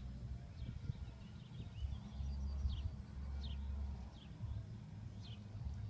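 Faint short chirps from a small bird, each a quick downward note repeated at uneven intervals, over a low steady rumble.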